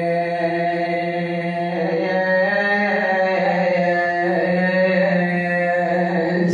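A man's voice chanting a drawn-out, wailing lament in long held notes that slowly rise and fall in pitch, over a steady low hum.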